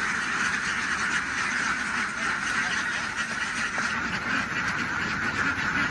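A large flock of farmed ducks quacking all at once, a dense, continuous din with no break.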